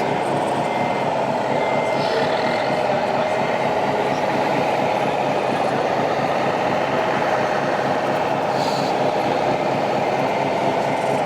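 Steady whine of a radio-controlled model truck's small electric drive motor and gearbox, its pitch wavering slightly as it runs.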